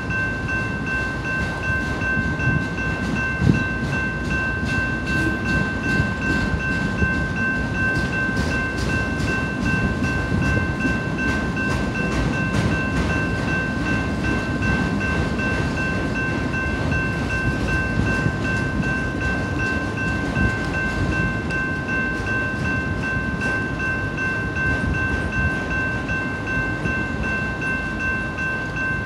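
A freight train's autorack cars rolling past at steady speed, with a continuous rumble and a stream of wheel clicks over the rail joints. A steady high ringing from the grade-crossing warning bell runs underneath.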